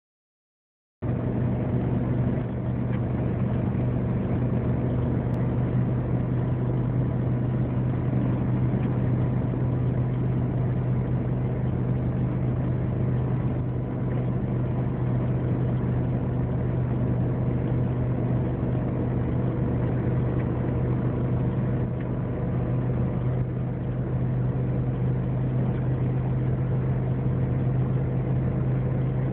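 Steady road and engine noise of a car driving at speed on a highway, heard from inside the cabin, with a constant low hum. It starts about a second in.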